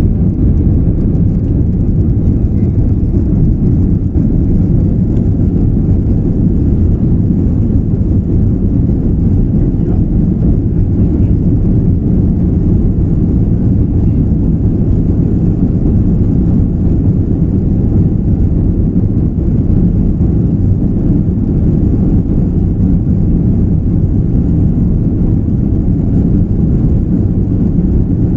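Airbus A330-300 airliner taking off, heard from inside the cabin: a steady, loud low rumble of the engines and airframe, with no let-up.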